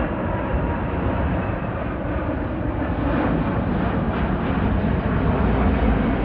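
Engines of an arriving jet airliner: a steady, loud jet noise, heaviest in the low range.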